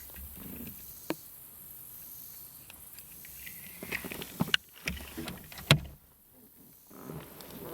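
A few sharp knocks and handling noises in a fishing kayak, the loudest about two thirds of the way through, over a low steady background.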